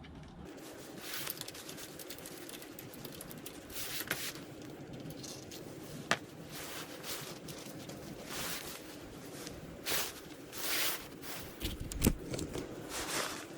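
Hand-tool and parts handling during a clutch cover replacement on a motorcycle engine: scattered scrapes and rustles, with sharp clicks about six and twelve seconds in.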